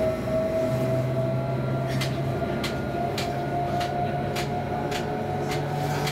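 Sm5 (Stadler FLIRT) electric commuter train heard from inside a carriage while running along the line: a steady rumble of wheels on rail under a faint electric whine. From about two seconds in, sharp clicks come a little under twice a second as the wheels run over the track.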